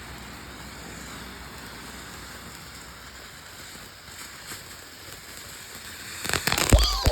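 Firework hissing steadily in a rain-like spray of sparks, then a burst of sharp crackling cracks and a heavy bang near the end.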